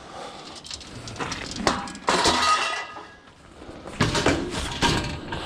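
Scrap objects knocking and clinking together as they are handled and moved. About two seconds in comes a loud clatter with a brief ringing clank, and more knocks follow near the end.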